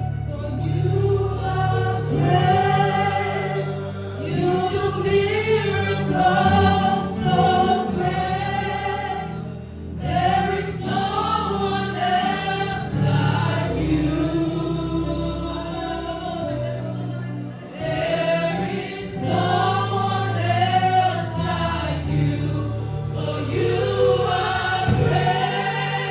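Congregation or worship team singing a gospel worship song with instrumental accompaniment and a steady bass line.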